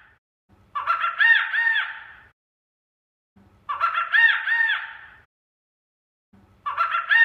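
An animal call, three times about three seconds apart, each a rising-and-falling call that sounds identical every time, as a looped sound effect.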